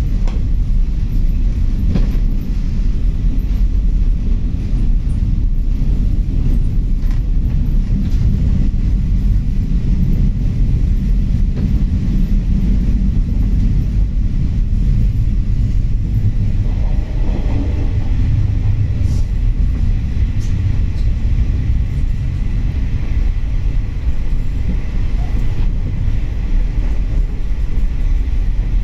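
Local diesel train running on the San'in Main Line, heard from inside the passenger car: a steady low rumble from the running gear and engine, with a few faint clicks.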